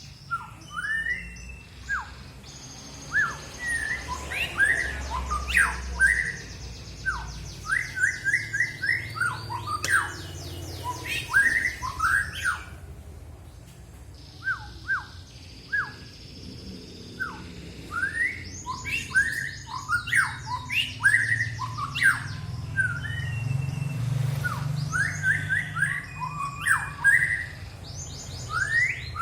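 A songbird singing loud, rapid phrases of sharp rising chirps mixed with fast high trills, in bursts with a short pause about halfway through.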